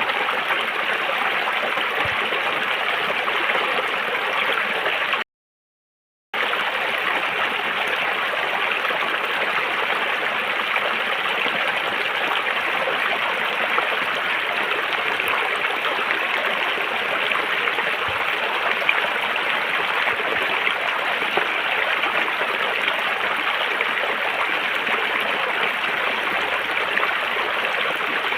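River water flowing in a steady rush. The sound cuts out completely for about a second, a little over five seconds in.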